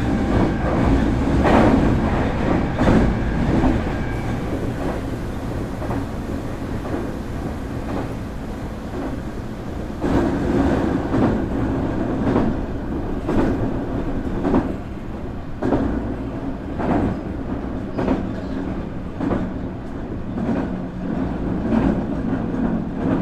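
Nankai 8300 series electric train (IGBT VVVF-controlled car) running, heard from on board: steady rumble of wheels on rail with irregular clacks over rail joints every second or two. A faint high motor or inverter whine fades out about four seconds in.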